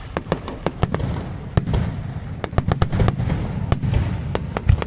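Fireworks display going off: a rapid, irregular run of sharp bangs over a continuous deep rumble of shell bursts.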